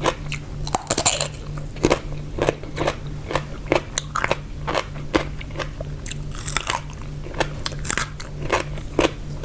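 Close-miked crunchy chewing of a spicy Thai pickled-seafood salad: crisp bites and crunches, two or three a second, over a faint steady low hum.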